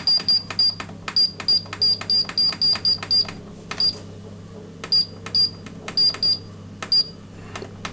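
Control-panel button of a Hotpoint Ultima WT960G washing machine pressed over and over, each press clicking and giving a short high beep, as the time-delay setting is stepped up towards 24 hours. The beeps come about four a second for the first three seconds, then more slowly and irregularly, over a steady low hum.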